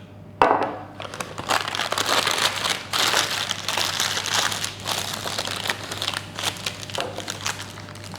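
A sharp knock about half a second in, then a few seconds of crinkling and crackling as paper is handled, fading near the end.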